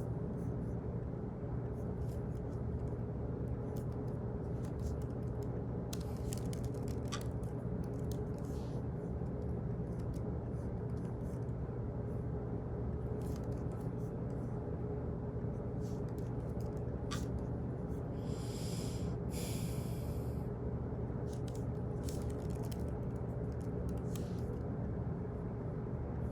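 Office room ambience: a steady low hum with scattered, irregular clicks and ticks, and a brief hiss of about two seconds roughly two-thirds of the way through.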